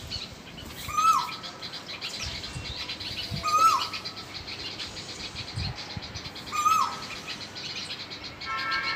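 A bird calling three times, each call a short held whistle that slides downward at the end. Under it runs a fainter, steady high-pitched twittering of other small birds.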